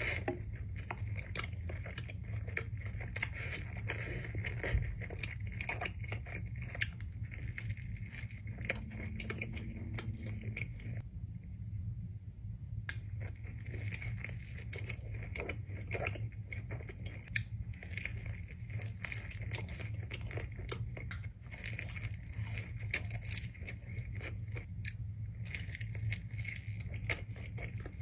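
Close-miked eating: irregular crunching bites and chewing of crisp fried food with crackling, over a steady low hum.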